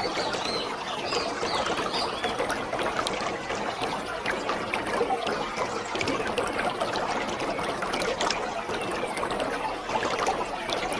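Waterfall: a steady rush of falling water, with many small splashes and drips throughout.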